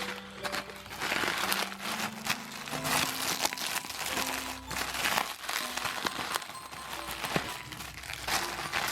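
Plastic packaging crinkling and rustling as it is handled, over background music with low held notes.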